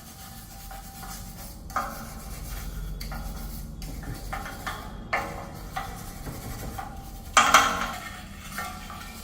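Hand work on metal parts: irregular scraping and rubbing broken by small clinks, with a louder clatter about seven and a half seconds in.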